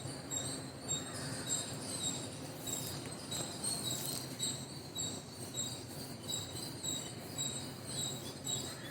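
Birds chirping: short high notes repeating steadily, two or three a second, over a low background rumble.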